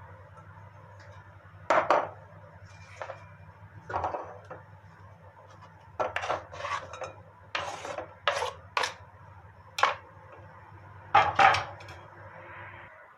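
Kitchen dishes and utensils clattering and knocking in irregular handling, about a dozen sharp clinks and knocks, over a faint steady low hum that stops near the end.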